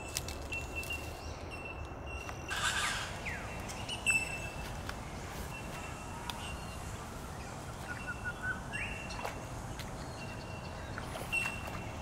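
Wild birds calling in a wetland: short high notes repeating every second or so, with a short rising call a little before the end. A brief noisy burst comes about three seconds in.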